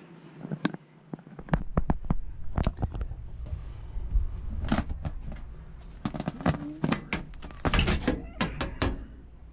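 A run of sharp clicks and knocks from hands and tools working on an air-conditioning unit's electrical panel while checking its fuse, over a low rumble that starts about a second and a half in.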